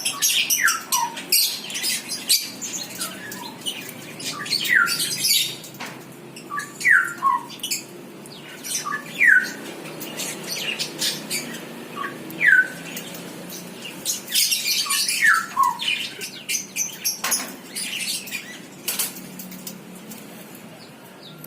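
Small birds calling in short chirps that slide downward in pitch, repeated every second or two, mixed with many sharp clicks and rustles.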